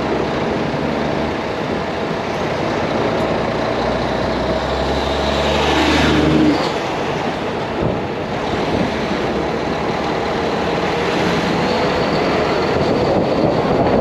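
Semi truck on the road, heard from inside the cab: steady engine and road noise. It swells briefly about six seconds in.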